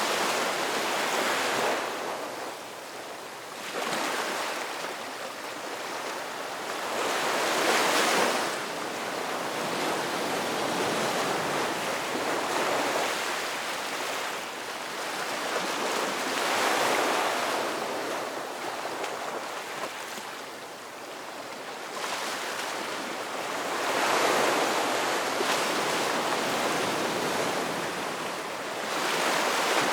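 Ocean waves breaking and washing on a shore, in slow surges that swell and fade every few seconds.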